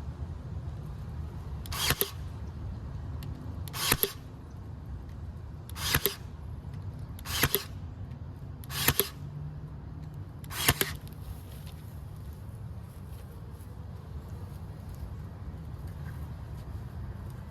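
Six short, sharp bursts spaced about a second and a half to two seconds apart, each swelling quickly to a peak, over a steady low rumble.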